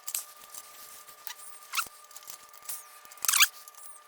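Scattered metallic clicks and short squeaks of a wrench working on the motorcycle hitch's mounting bolts and nuts, with a louder squeak about three seconds in.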